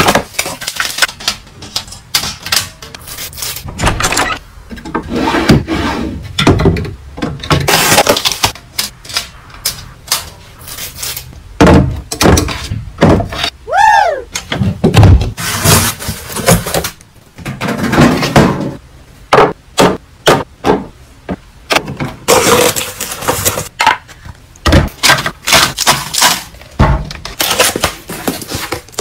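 Close-up handling of packaged goods and storage containers: a dense run of crackling, clicks, taps and knocks as items are picked up and set down, with a short squeak about 14 seconds in.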